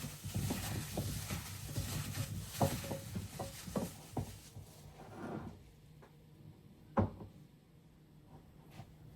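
Kitchen handling sounds: a busy run of small clicks, clatters and knocks from utensils and containers, then quieter, with a single sharp knock about seven seconds in.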